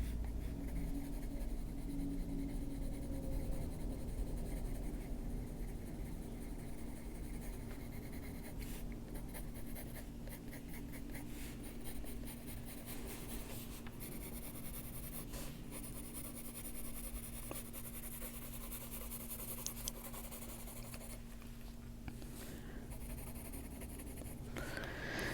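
Colored pencil strokes scratching softly across a colouring book page as an area is shaded, over a low steady hum.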